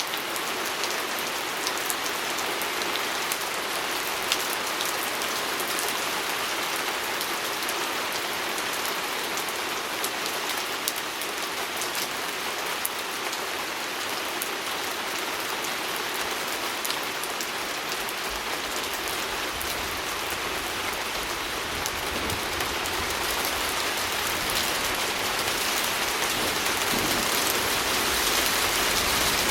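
Steady rain pattering on a window pane, with many separate drop ticks over the wash of rainfall. A low rumble joins underneath about two-thirds of the way through.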